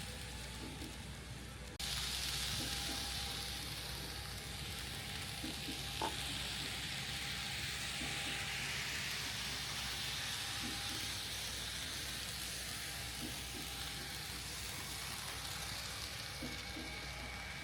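N-scale model train running on the layout's track: a steady hiss of wheels and motor with faint irregular ticks, like wheels crossing rail joints. The hiss suddenly gets louder about two seconds in, and there is one sharp click about six seconds in.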